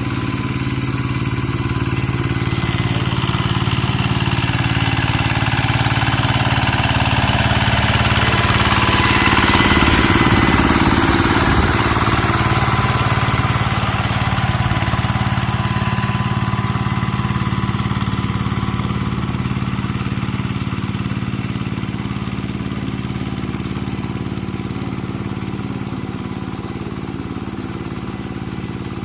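Two-wheel hand tractor's single-cylinder diesel engine running steadily while ploughing a wet rice paddy. It grows louder to a peak about a third of the way through, then slowly fades as the tractor moves away.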